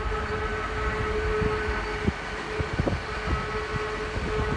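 GWR Intercity Express Train rolling slowly past along the platform: a steady rumble with a steady whine that cuts out about two seconds in and returns shortly after, and a few knocks from the wheels.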